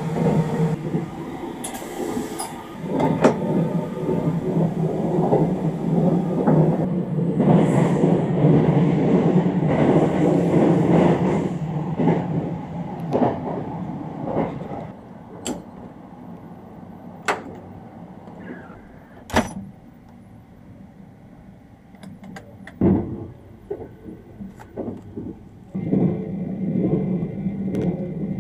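Sleeper train running noise heard from inside the car: a steady low rumble, loud over the first twelve seconds, then much quieter, with scattered sharp clicks and knocks, and louder again near the end.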